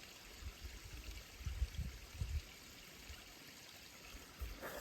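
Small waterfall running steadily, an even rush of falling water. A few short low thuds sound in the middle.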